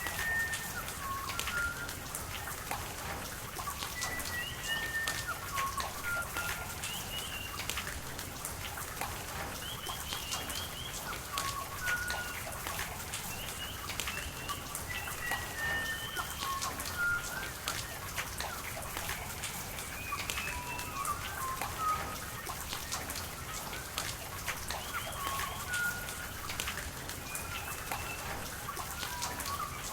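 Steady rain with sharp drop ticks, and birds chirping over it in short, repeated notes throughout.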